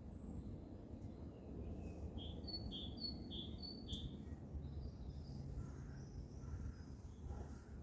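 A small bird calling outdoors: a quick run of four short, evenly spaced high chirps, with a few fainter notes later, over a steady low background rumble. A single sharp click comes just after the chirps.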